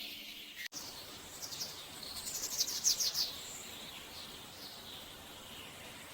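Faint bird chirping over a soft, steady hiss, with a quick run of high chirps between about one and a half and three seconds in.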